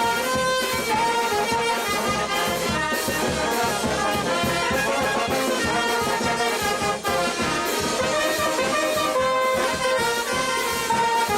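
A brass band playing: trumpets and trombones carry a melody in held notes over a steady, regular beat.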